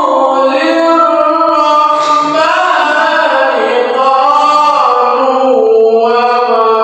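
A man reciting the Quran in the melodic qori style, holding long ornamented notes that slide slowly up and down in pitch without a break.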